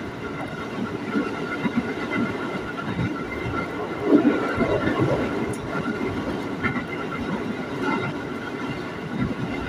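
Ex-JR 205 series electric commuter train running at speed, heard from inside the car: a steady rumble of wheels on the track with steady high tones through it, growing louder for a moment about four seconds in.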